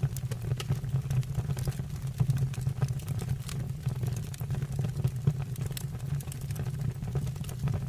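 Wood fire burning in a stove or fireplace: a steady low rumble of flames with frequent small crackles and pops scattered throughout.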